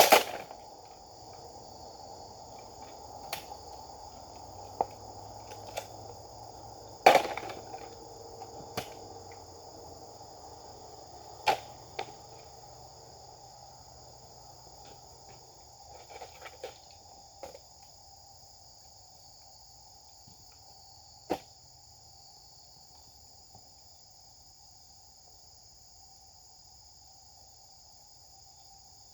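Sharp cracks and thwacks of a Japanese sword striking cutting targets, the loudest right at the start and about 7 s in, with fainter knocks between and a last strike about 21 s in. Insects chirr steadily throughout.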